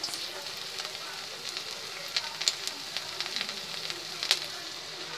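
Mixed vegetable pakora batter sizzling as small portions are dropped by hand into hot oil in a steel pan: a steady hiss with a few sharp pops and crackles.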